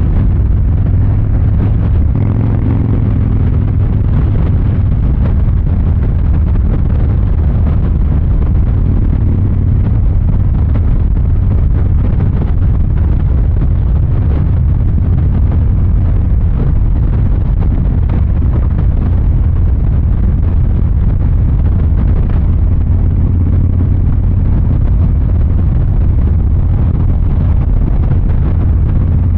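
Harley-Davidson Fat Boy 114's Milwaukee-Eight 114 V-twin engine running through its exhaust at a steady cruise, a deep, even rumble.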